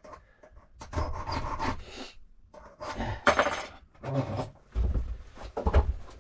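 Large hand file rasping across a safe key blank in several separate strokes about a second apart, filing down a small ridge on the cut.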